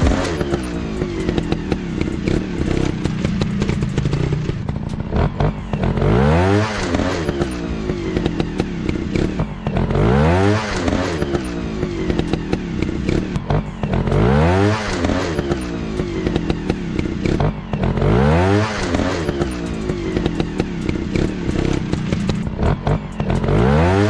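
Dirt bike engines running and revving up again and again, with a rising rev about every four seconds, over a continual clatter of short knocks.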